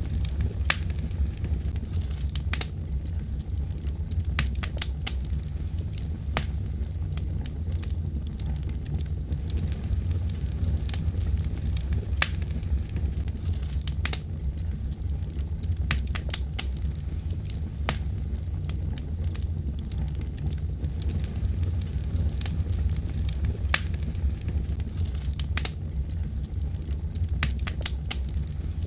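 A fire crackling: a steady low rumble of burning, with frequent sharp crackles and pops at irregular intervals.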